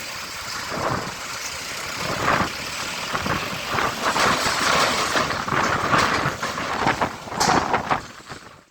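Heavy diesel trucks running in a queue, with repeated louder surges of hiss and engine noise. The sound cuts off abruptly near the end.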